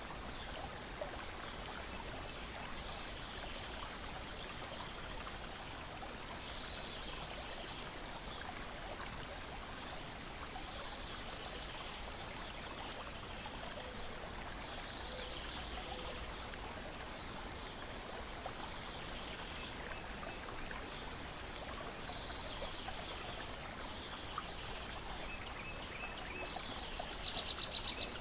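Steady wash of lake water lapping and splashing, with a bird's short high call repeating about every four seconds and a louder rapid trill near the end. A few faint pops of a crackling wood fire are mixed in.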